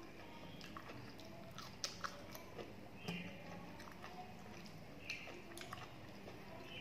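Close-up eating sounds: chewing and wet mouth clicks and smacks while eating panta bhat, soaked rice, by hand, with fingers mixing the wet rice on a steel plate. Faint, with scattered sharp smacks about two and three seconds in and again about five seconds in.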